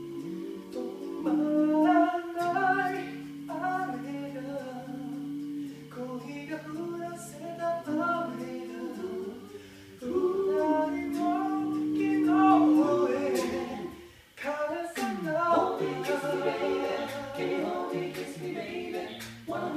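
An a cappella vocal group singing in close harmony, with held chords under moving melody lines. Near the middle the voices slide down and back up in pitch.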